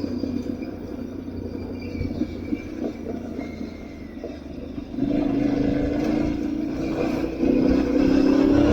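Aprilia Tuareg 660's parallel-twin engine running under way off-road over a low rumble. The throttle opens about five seconds in, and the engine gets louder with its pitch rising a little near the end.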